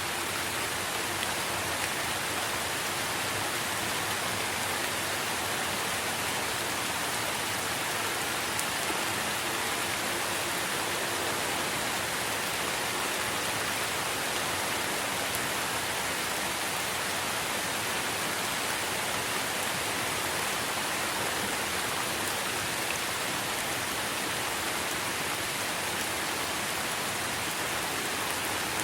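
Steady rain falling on trees and leaves, an even hiss of drops.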